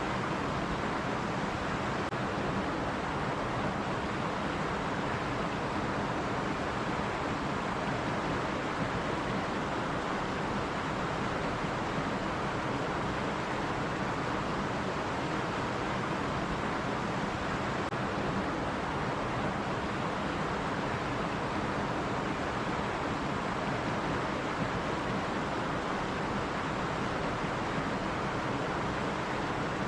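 Stream water running over rocks: a steady, even rush with no pauses or separate splashes.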